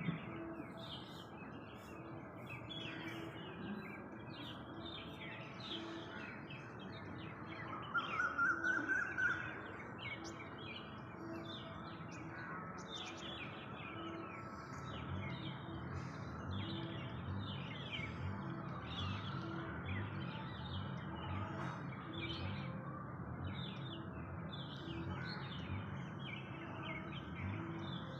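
Many small birds chirping and calling together in a steady chorus of short, high chirps. One louder, warbling call stands out for about a second and a half around eight seconds in.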